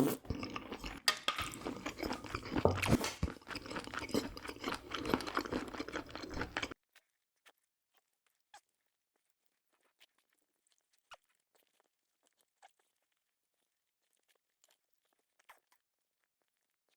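Close-miked chewing and crunching of food, with wet mouth clicks, for about seven seconds. It then cuts off suddenly to near silence with a few faint ticks.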